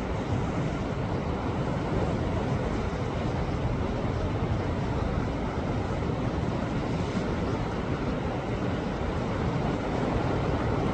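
Sea waves washing against shoreline rocks: a steady, unbroken rush of surf with a deep rumble underneath.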